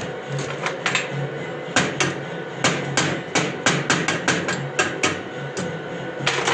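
Hammer striking metal in a quick, irregular run of sharp blows, about two or three a second, over a steady low hum.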